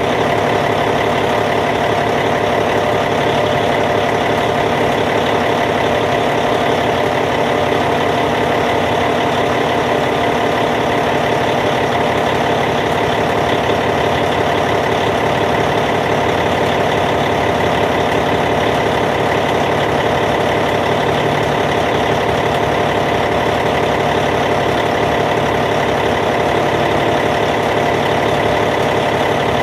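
Caterpillar C15 diesel engine of a D8T bulldozer idling steadily.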